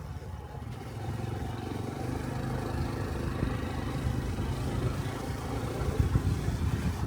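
Honda 125 cc single-cylinder motorcycle engine running under steady throttle while riding, with wind rumble on the microphone; the engine note settles into an even tone about a second in.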